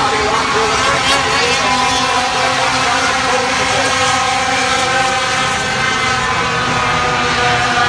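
Several racing super trucks' engines running at speed around a short oval, loud and steady, their different engine notes overlapping.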